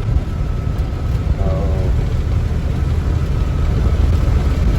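Freightliner box truck's engine and road noise, a steady low rumble inside the cab while driving.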